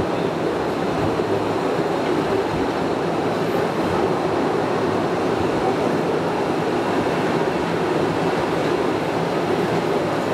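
Cave tourist train running steadily along its track, an even rumble and rattle heard from aboard an open carriage.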